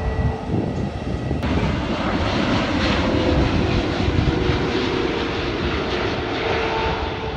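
Jet airliner's engines running loud and steady, the hiss growing stronger about a second and a half in, with a faint steady whine underneath.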